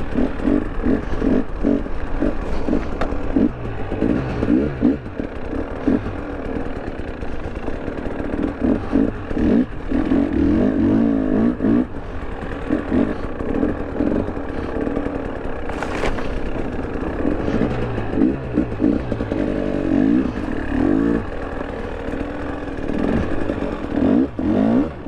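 2023 KTM 300 Erzbergrodeo single-cylinder two-stroke dirt bike being ridden, its engine revving up and down again and again as the throttle is opened and closed. A sharp click sounds about sixteen seconds in.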